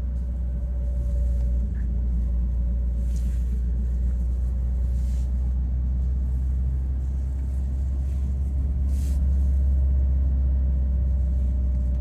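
Car driving, a steady low road-and-engine rumble heard from inside the cabin, with a faint steady whine above it.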